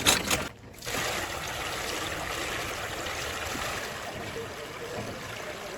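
A short rhythmic machine clatter that breaks off about half a second in, then a steady rushing, water-like noise.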